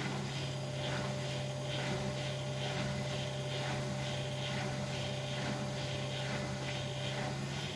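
Bosch Maxx WFL 248Y washing machine running: a steady motor hum, with an even swish repeating a little under twice a second as the drum turns.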